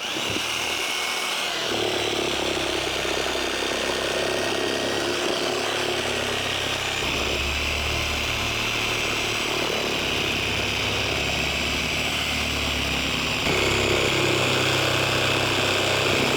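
A handheld power saw runs continuously as it cuts through an old tractor tyre's rubber sidewall to split the tyre off a rusted rim. Its pitch wavers a little under load, and it gets slightly louder near the end.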